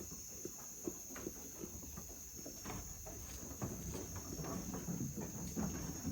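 Insects chirring steadily at a high pitch, with scattered light clicks and knocks.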